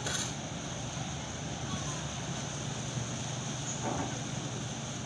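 Steady low rumble of a docking ferry's engines, with a brief hiss right at the start.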